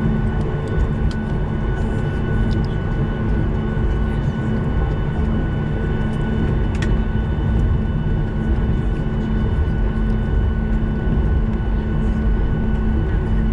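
Steady cabin rumble of a Boeing 737 airliner taxiing in after landing, with a constant engine hum and a few steady whining tones. One sharp click about seven seconds in.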